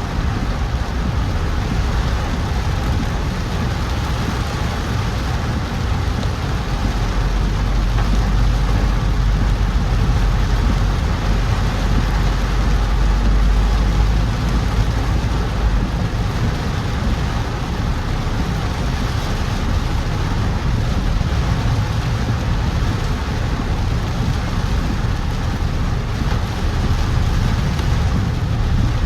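A car driving in heavy rain: steady engine and tyre noise with rain falling on the car. A deeper low rumble swells for several seconds around the middle.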